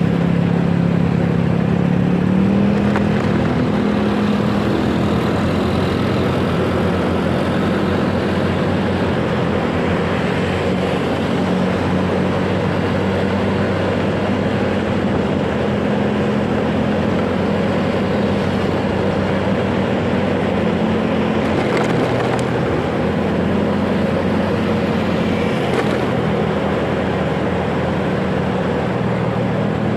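Motorcycle engine running while riding in traffic, its note rising and falling a little with the throttle over a steady rushing noise.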